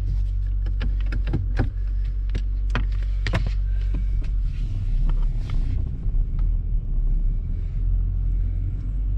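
Honda Civic 1.4 petrol four-cylinder engine idling with a steady low rumble while the car creeps backwards in reverse. A run of sharp clicks and cracks sounds over the first four seconds, with a short hiss about five seconds in.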